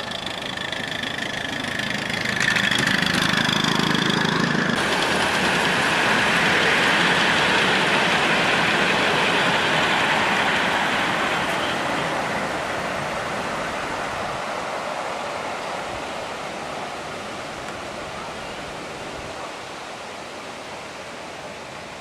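Miniature railway train passing: a noisy running sound that swells about two seconds in, holds, then slowly fades away. A faint high steady tone sounds in the first few seconds.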